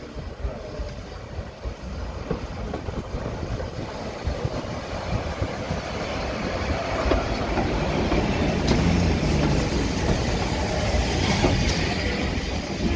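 Heritage railway train running on the track, its wheels rumbling and clattering over the rails, growing steadily louder.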